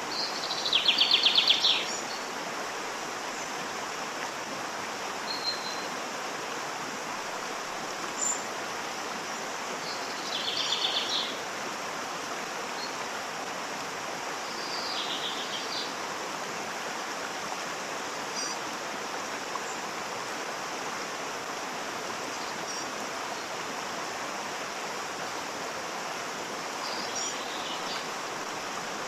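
Steady rush of a waterfall, with birds calling now and then over it: a loud rapid trill about a second in, others near the middle and near the end, and a few short chirps between.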